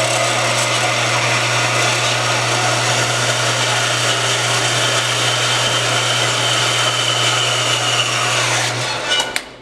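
Power saw running steadily as it cuts through steel stock, with a constant motor hum under the cutting noise. It stops about nine seconds in as the cut finishes, followed by a couple of sharp clicks.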